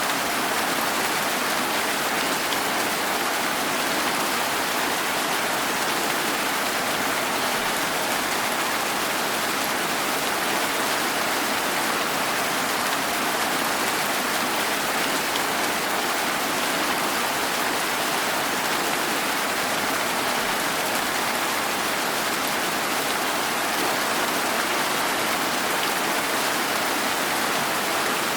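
Steady heavy rain, an even hiss of falling rain with no single drops or thunder standing out.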